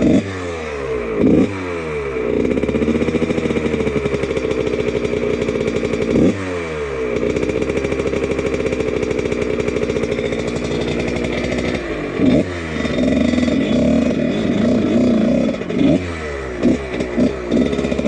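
1999 Husqvarna CR125 single-cylinder two-stroke dirt bike with a Pro Circuit exhaust being ridden, its engine revving up and down. Several sharp throttle blips fall away in pitch, with longer stretches held at higher revs between them.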